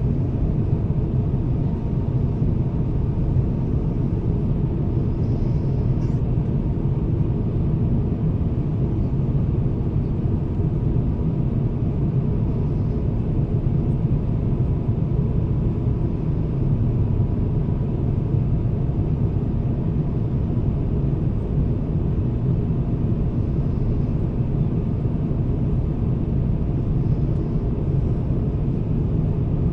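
Steady cabin noise inside an Airbus A350-1000 airliner in flight, engine and airflow noise as a constant low rumble with a faint thin tone above it.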